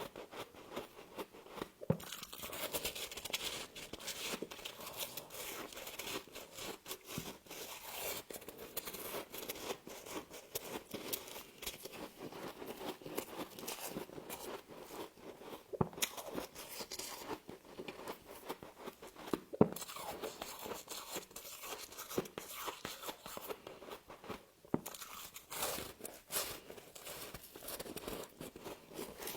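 Frost being bitten and chewed: a steady run of crunching and crackling, with a few sharper snaps.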